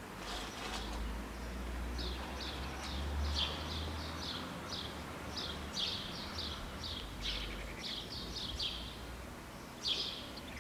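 A small bird chirping over and over, short high notes at about three a second, over a low steady rumble.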